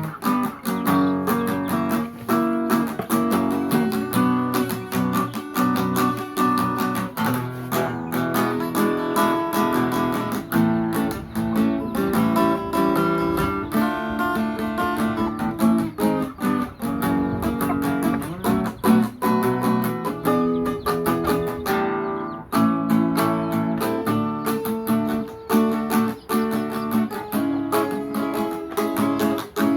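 Acoustic guitar playing a continuous melody: plucked notes mixed with strummed chords.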